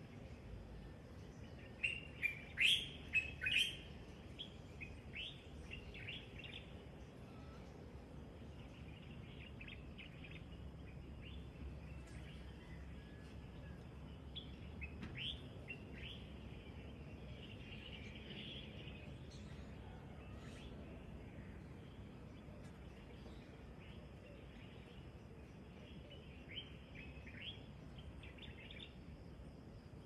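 Small birds chirping at dawn: a burst of loud, quick, sharp chirps about two seconds in, then scattered calls, and another run of chirps near the end, over a steady faint background hum.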